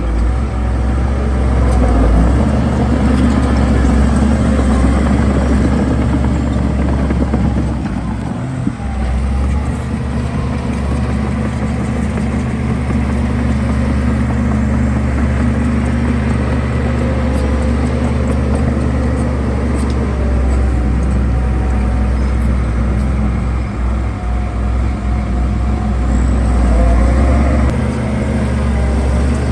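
Diesel engine of heavy construction machinery running steadily under load, with a short dip in level about eight seconds in.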